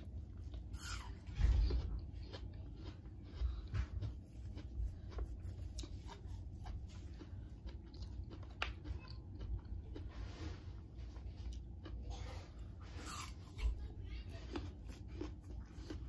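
Crisp apple slices being bitten and chewed close up: many short crunches and mouth clicks, with a few louder bursts about a second in and again near the end.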